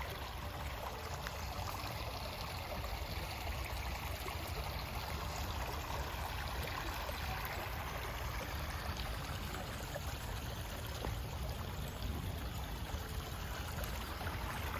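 A small rocky brook running over stones: a steady rush and trickle of water.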